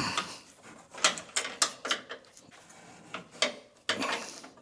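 Ratchet wrench clicking and clanking in short, uneven strokes on a tight, binding bolt in the truck's front end.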